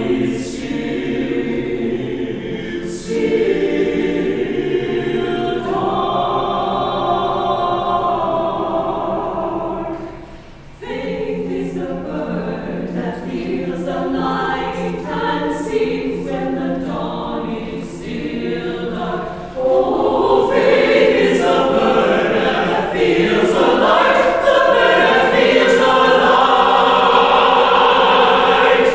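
Church choir singing an anthem in sustained chords. The sound briefly drops away about ten seconds in, then builds to a louder, fuller passage for the last third.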